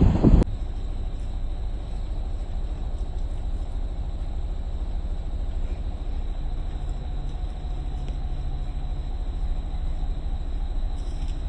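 Safari vehicle's engine running with a steady low rumble. A louder noise cuts off abruptly just under half a second in, and a faint low hum joins the rumble about halfway through.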